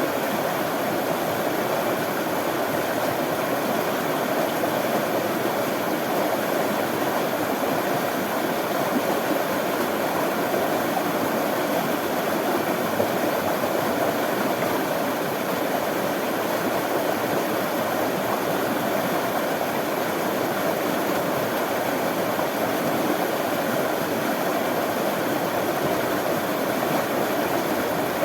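Running water flowing steadily, an even rushing sound with no breaks.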